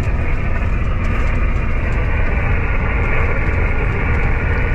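Steady engine and road noise inside a moving truck's cab, a constant low rumble with a hiss above it.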